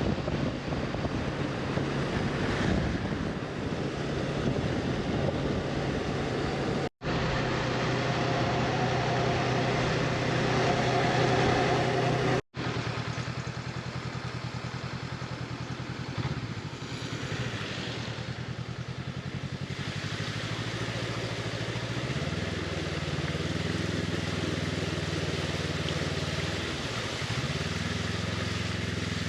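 Honda CB500X parallel-twin engine running at a steady cruise, with wind and road noise. Its pitch dips and rises a few times in the last third as the speed changes. The sound drops out for an instant twice.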